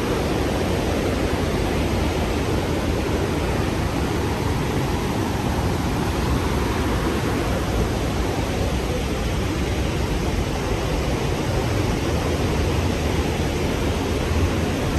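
Rhine Falls waterfall: a steady, loud rush of falling water, unbroken and without pauses.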